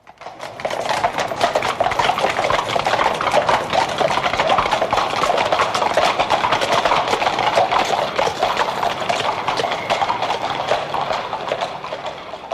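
Horse hooves clip-clopping in a dense, quick patter of a horse-drawn coach, fading in at the start and fading out near the end.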